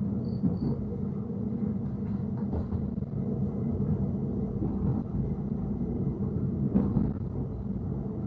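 Steady low rumble of a passenger train coach running on the rails, heard from inside the carriage, with a few light knocks and one louder clunk near the end. Two faint short high beeps come near the start.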